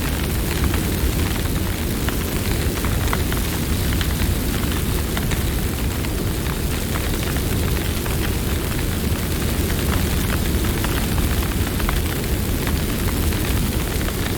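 Campfire burning: a steady low roar of the flames with many small irregular crackles and pops from the burning wood.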